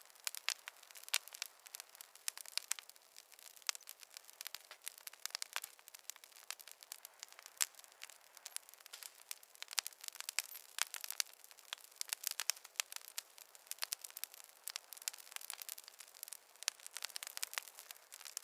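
Fire crackling in a fireplace: a dense, irregular stream of sharp pops and snaps.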